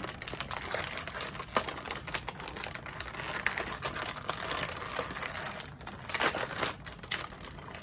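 Crinkly plastic cookie packaging being handled and opened, a dense run of irregular crackles and clicks.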